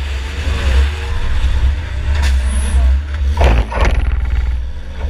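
Onboard sound of a 2004 Chevy Impala enduro race car under way, its engine running with a heavy low rumble. About three and a half seconds in there is a short clatter of sharp knocks.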